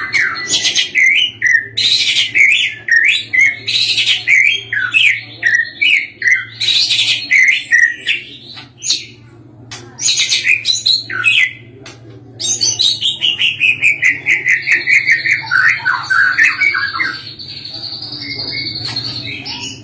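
White-rumped shama (murai batu) singing loudly: fast, varied whistles, trills and chattering phrases, broken by a couple of short pauses. A long run of notes that fall in pitch follows, then a steady high note near the end.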